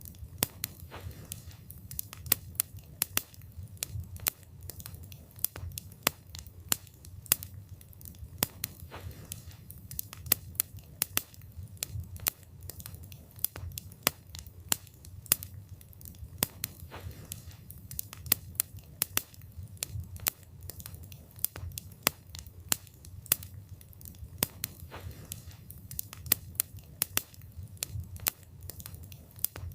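Wood fire burning, with frequent sharp, irregular crackles and pops over a low, steady rumble of the flames.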